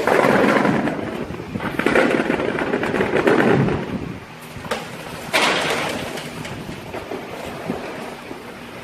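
Green tangerines rolling and tumbling in a packing operation: a rattling rumble of many small fruit knocking together, surging loudly three times and settling to a lower steady clatter.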